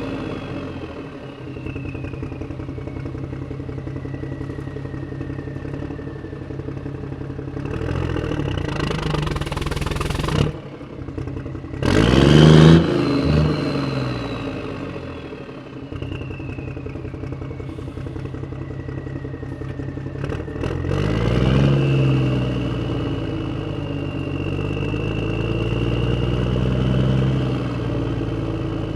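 Tractor engine running as the tractor drives on a road, with a high whine that slides slowly down in pitch and later back up. The engine revs up sharply about twelve seconds in, the loudest moment, and pulls up again about twenty-one seconds in.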